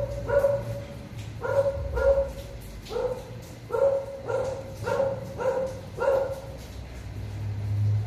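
A dog barking repeatedly, about ten short barks at an uneven pace of one or two a second, stopping a little after six seconds in.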